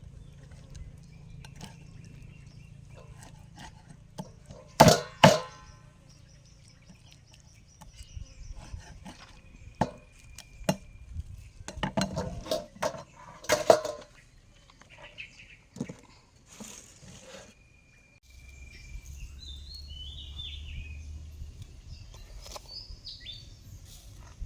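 Cooking-utensil clatter: scattered sharp knocks and clinks, the two loudest close together about five seconds in and another loud knock near the middle. Birds chirp briefly near the end.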